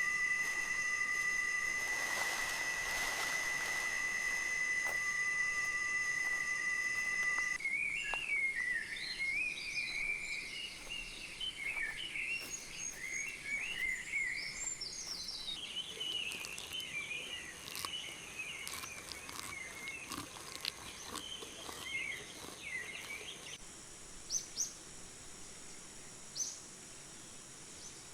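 Rainforest ambience. A steady high-pitched insect drone stops about seven seconds in. Warbling, chattering bird calls follow, and near the end there are a few faint, short high chirps.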